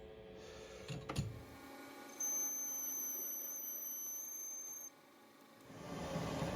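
Metal lathe boring a bronze bore: a steady high-pitched whine for about three seconds that starts and stops abruptly, then a rising hiss of cutting noise near the end.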